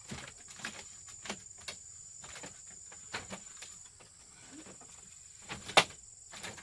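Insects chirring in a steady high thin tone, with scattered light clicks and taps and one sharp knock near the end.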